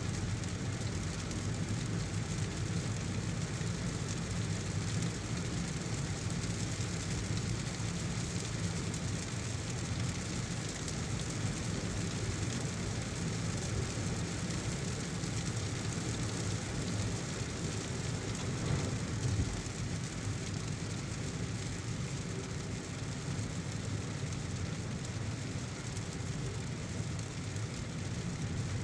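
Heavy rain falling steadily, over the continuous low rumble of a car driving through it on a wet road.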